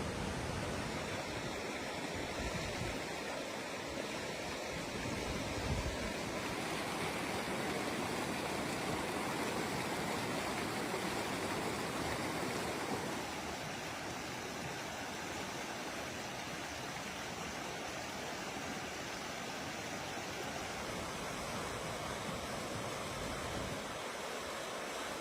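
Steady rushing of fast-flowing floodwater, a river running high; it eases slightly about halfway through.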